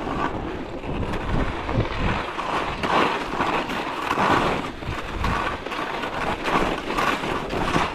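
Edges scraping over icy snow on a fast downhill run, the scraping swelling and fading with each turn, with wind on the microphone.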